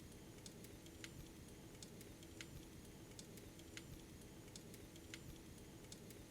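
Faint crackling of a wood fire in a fireplace: sharp, irregular snaps a few times a second over a steady low hum.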